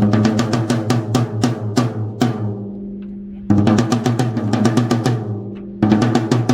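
Mapex Black Panther 14×4.5 snare drum played in quick runs of strokes and rolls, with a ringing tone under them. About two seconds in, the playing stops and the drum rings out for about a second before the strokes start again, and there is another short break near the end.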